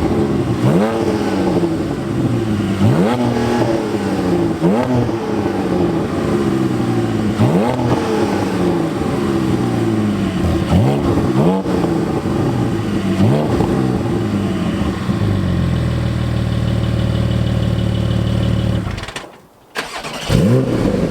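Porsche 718 Cayman GT4's 4.0-litre flat-six, exhaust valves open, revved again and again: each rev rises quickly and falls back, about one every second or two. From about three quarters of the way through it runs steadily. The sound cuts out briefly near the end, then the engine is heard again.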